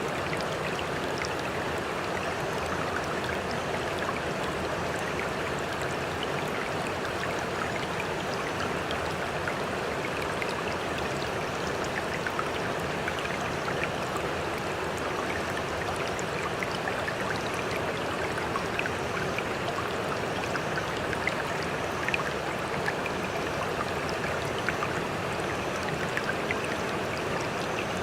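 Sea water washing and trickling steadily, full of small splashes and droplet ticks, with no separate waves rising and falling.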